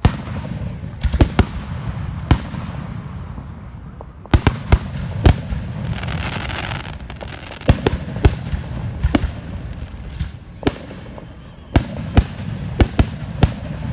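Fireworks going off: about twenty sharp bangs in uneven clusters over a steady low rumble, with a brief hiss about six seconds in.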